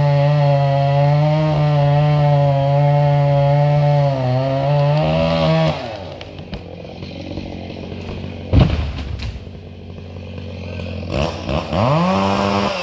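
Chainsaw running at high revs with a slightly wavering pitch, then winding down and dropping in level about six seconds in. A heavy thump comes a couple of seconds later, and the saw revs up again shortly before the end.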